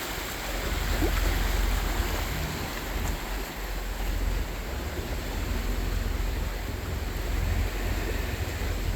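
Wind buffeting the microphone over the wash of choppy canal water and passing motorboats, a steady rushing noise with a low rumble.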